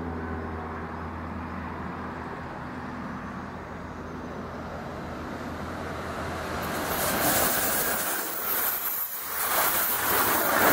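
Electric regional passenger train approaching and passing close by. A steady low hum gives way, about two-thirds of the way in, to a quickly rising rush of wheel and rail noise, which is loudest as the carriages go past near the end.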